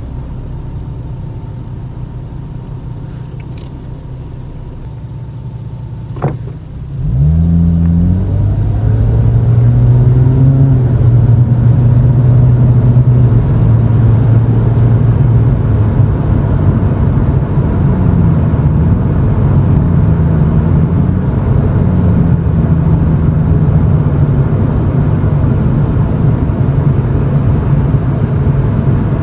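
Toyota Chaser GX100's 2.0-litre straight-six through a Reinhardt bullet-type aftermarket muffler, heard from inside the cabin: a low steady idle at first, a sharp click about six seconds in, then the exhaust note rises and grows louder as the car pulls away and settles into a steady low drone while driving slowly, with small dips and rises in pitch.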